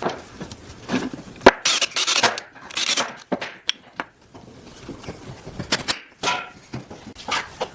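Hand work on small wooden pieces: irregular scraping and rubbing strokes with a few sharp knocks.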